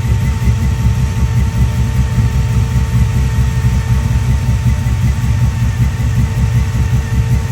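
A car engine idling with a deep, pulsing low rumble that stays level and steady.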